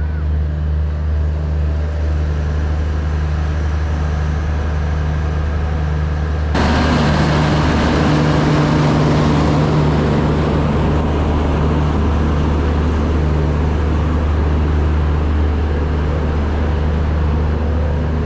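A vehicle on the move: a steady low hum with a haze of wind and road noise, which turns suddenly louder and brighter about six and a half seconds in.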